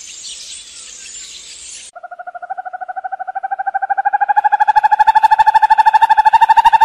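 A steady high hiss for about two seconds, then an animal's long trilled call: a rapid run of pulses on one pitch that rises slightly and grows steadily louder.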